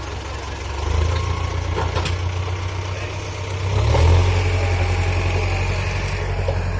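Powertrac tractor's diesel engine running steadily, growing louder about a second in and again, more strongly, near four seconds in.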